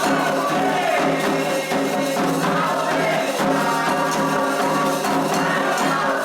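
Candomblé ritual music: voices singing a chant for Xangô over steady hand drumming and percussion.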